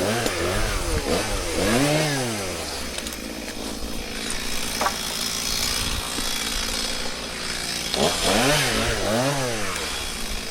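Two-stroke chainsaw idling and being revved in short throttle blips, the pitch rising and falling each time. It revs twice in the first two seconds, idles steadily through the middle, and revs twice more near the end.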